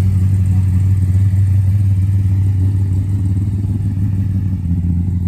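Modified two-door car with a big bonnet scoop rolling slowly past at low, steady revs: a loud, deep exhaust note with no revving.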